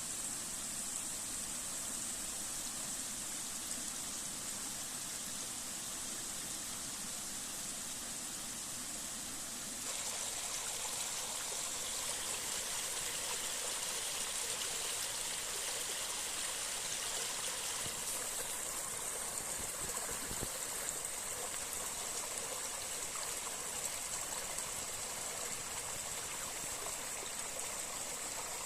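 Running water in a stream, a steady rush, swollen after rain. It gets louder and brighter about ten seconds in.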